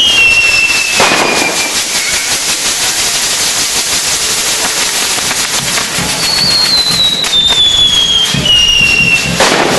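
A fireworks castillo burning, with dense continuous crackling and hissing. Whistles fall slowly in pitch near the start and again from about six to nine seconds in, and sharp bangs come about a second in and near the end.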